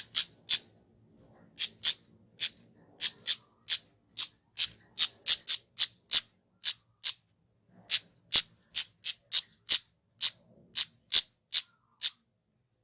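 Flowerpecker (kemade) giving a long run of short, sharp, high-pitched calls, two or three a second, with a brief pause a little past the middle.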